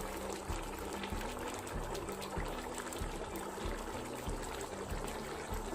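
Ghee poured into a hot pot of cooked chickpeas, bubbling with many fine crackling ticks.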